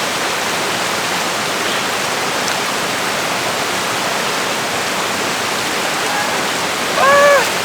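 Waterfall water pouring down in a steady rushing hiss, with a brief high-pitched cry near the end.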